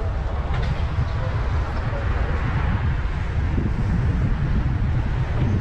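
Road and wind noise from a moving car: a steady low rumble with a hiss spread above it, and wind buffeting the microphone.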